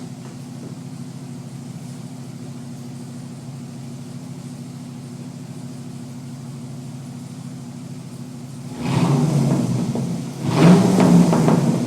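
Pontiac GTO V8 with the mufflers unbolted, idling steadily, then revved twice, about nine seconds in and again near the end. The exhaust runs open, with no mufflers.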